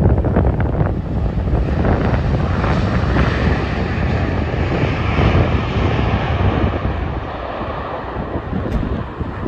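Jet airliner passing close on landing approach, a loud engine roar with a deep rumble that eases off after about seven seconds, with wind buffeting the microphone.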